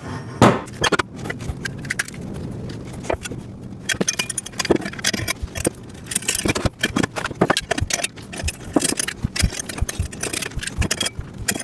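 Steel bolts and metal frame parts of a welding table kit clinking and rattling as they are handled and fitted together, with many light knocks and scrapes.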